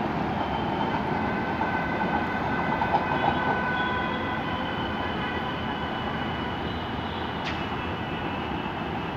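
Passenger train running away down the line, its steady rumble of wheels on rail slowly fading, with faint high steady squealing tones over it in the first few seconds.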